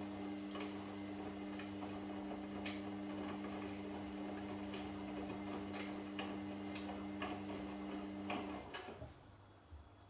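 Washing machine running: a steady motor hum with sharp clicks about once a second, then the hum stops near the end and the sound drops much quieter.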